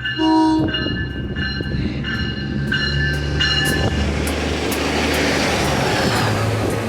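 Nippon Sharyo diesel multiple unit pulling out: a short horn toot just after the start, a warning bell dinging about twice a second until about four seconds in, the diesel engine revving up, and then a rising rush as the train rolls past.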